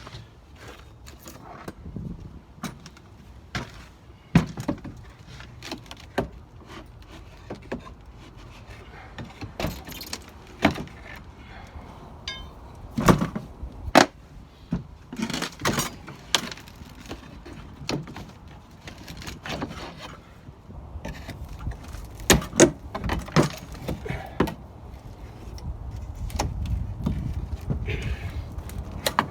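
Irregular knocks, taps and clicks of hand work on an old wooden window frame and sash. A low rumble builds up over the last several seconds.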